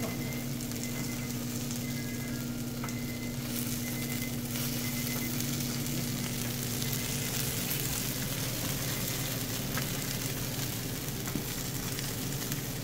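Steady sizzle of food frying, over a steady low hum from kitchen equipment, with a few light clicks of metal tongs against a baking tray.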